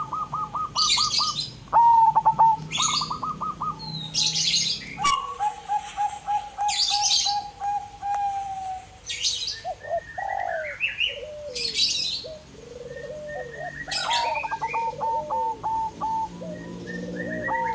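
Several birds calling: short bursts of high chirps every second or two, over quick runs of repeated lower notes and short sliding calls.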